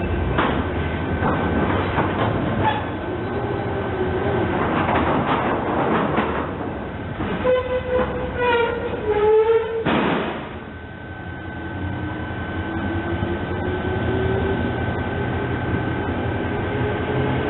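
Train noise at close range: wheels clicking over the rails, a horn-like tone that falls slightly in pitch for about two seconds, a sudden loud hiss about ten seconds in, then a drive whine that slowly rises in pitch as a train pulls away.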